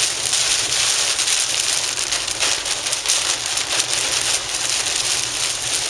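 Car driving in rain, heard from inside the cabin: a steady hiss of rain and wet road with a low engine rumble underneath.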